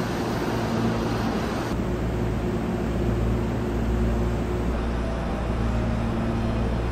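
Hankyu electric train noise: a steady rumble with a low hum, shifting abruptly about two seconds in and again near five seconds.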